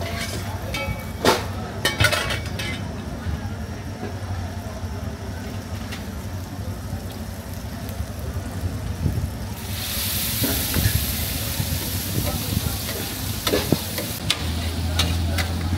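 Kaleji (liver) frying on a large flat steel tawa, with metal spatula clinks and scrapes against the griddle. About ten seconds in, a louder sizzle sets in and lasts about four seconds.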